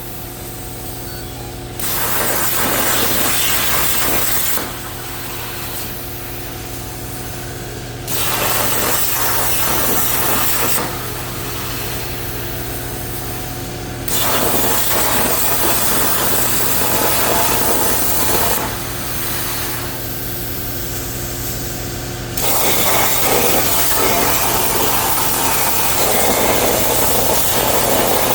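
Everlast 82i plasma cutter on a CNC table cutting 16-gauge hot-rolled steel: a loud, even hiss of the arc in four stretches of a few seconds each, with quieter pauses between cuts in which a steady hum carries on.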